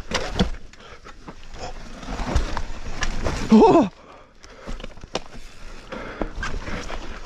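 Mountain bike riding fast down a rough dirt trail: tyre rumble with the chain and frame rattling and sharp knocks over bumps and roots. A short shout comes about halfway through.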